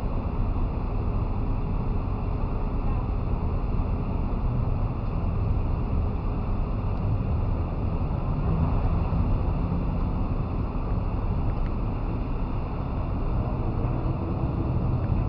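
Steady low rumble of wind and road noise from a Chevrolet Malibu driving along, picked up by a camera mounted on the car's roof, with wind buffeting the microphone.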